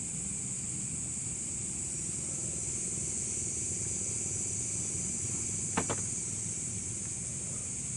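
Steady outdoor background noise: a low, even rumble with a constant high hiss over it. Two sharp clicks come in quick succession about six seconds in.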